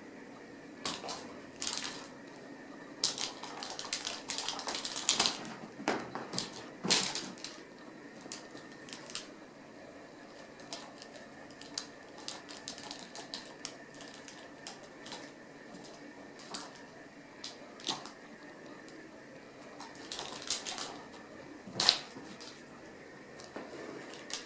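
Ragdoll kittens playing on a hard floor: irregular clicks, taps and scuffles, coming in quick flurries with quieter stretches between.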